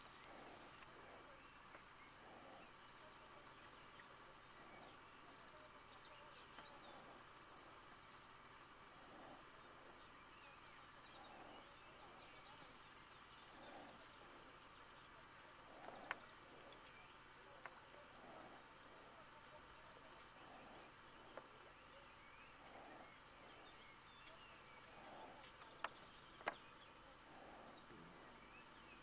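Faint open-air ambience with small birds chirping in repeated short high runs, and a few sharp clicks.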